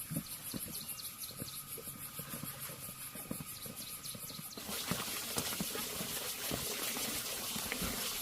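Scattered light knocks, then a little past halfway water suddenly starts running with a steady rushing hiss.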